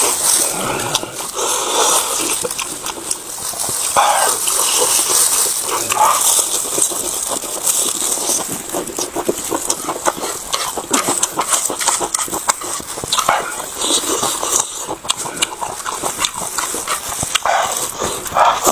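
Close-miked chewing of a lettuce wrap with a full mouth: dense, wet crunching and clicking mouth sounds.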